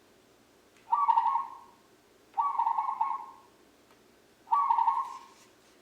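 Recorded zebra dove song played back from a bird-song book's small speaker: three rolling, rapidly pulsed coos about a second long each, evenly spaced.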